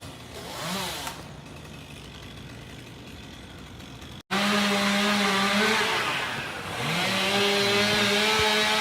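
A fainter engine hum, then after a sudden break about four seconds in, a chainsaw running loud at high revs, its pitch sagging briefly and climbing back.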